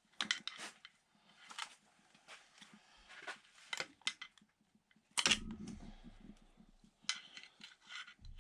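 Scattered metal clicks and clinks of hand tools and engine parts being handled, with a heavier clunk about five seconds in.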